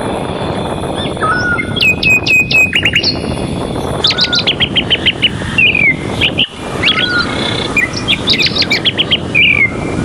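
Several birds chirping in quick runs of short, sharp downward-sweeping notes, with a lower whistled note now and then, over a steady rushing noise of wind.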